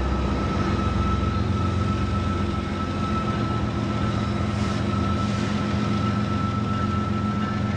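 Diesel freight locomotives running close by: a steady low engine drone with a thin, steady high whine above it.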